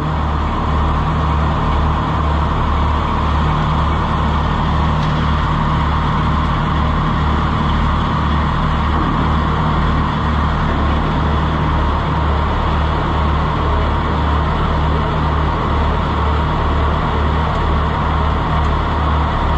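Oliver 70 tractor's six-cylinder engine running after a cold start, a steady low throb that pulses evenly. It runs rough, a sign the old tractor needs work.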